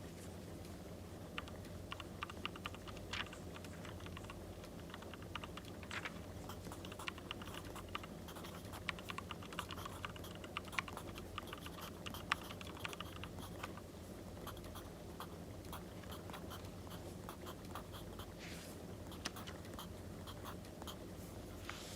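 Crackling wood fire: clusters of small pops and ticks over a steady low hum, with a few brief scratchy paper sounds.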